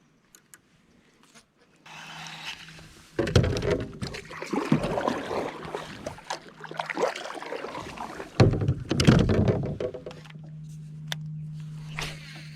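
Water splashing and knocks against a kayak's hull as it is moved about on the water, starting about two seconds in and stopping about ten seconds in, followed by a steady low hum.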